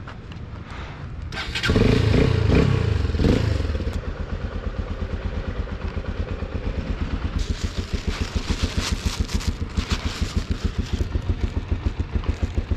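Auteco Victory MRX 150's single-cylinder four-stroke engine starting about a second and a half in, revving briefly, then settling into a steady, evenly pulsing idle.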